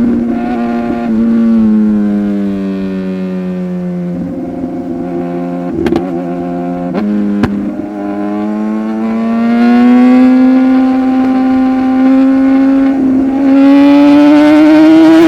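Sport motorcycle engine heard while riding: its note drops as the throttle eases, holds low, then climbs steadily as the bike accelerates through the second half. Two sharp clicks come around the middle.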